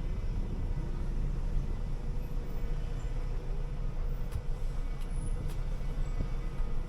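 City bus running along the road: a steady low engine and road rumble with a faint steady hum, and a few light rattles or ticks.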